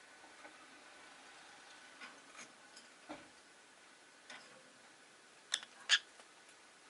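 Rosy-faced lovebirds in their cage making scattered small clicks and taps, then two louder, sharper short sounds about half a second apart near the end.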